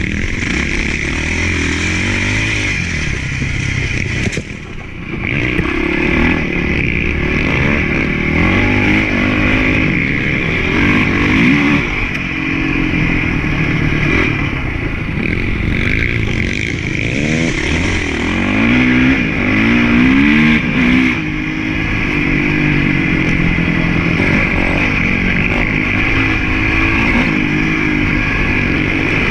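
Honda CRF450 motocross bike's single-cylinder four-stroke engine being ridden hard, revving up and falling back again and again as the throttle is worked through the track. The sound drops briefly about four and a half seconds in, when the throttle is shut.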